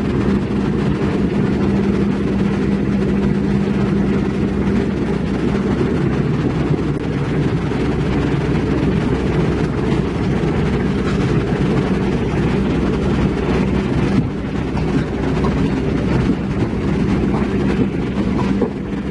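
Heavy diesel engine of construction equipment running steadily: a loud, low rumble with a constant hum, easing off a little toward the end.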